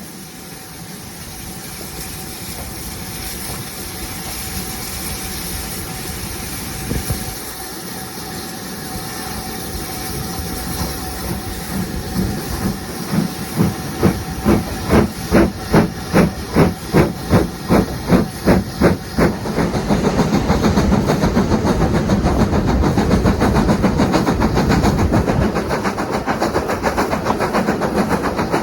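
Steam locomotive hissing steam, then starting away: from about halfway, distinct exhaust chuffs about two a second that quicken into a fast continuous beat, growing louder.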